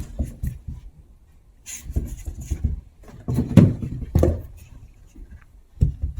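Two Chihuahua puppies playing: irregular scuffling and bumping, with a few sharp clicks, loudest a little past the middle.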